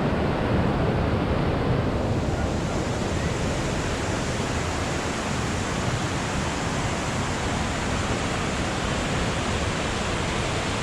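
Steady rush of moving water, even and continuous, without breaks or surges.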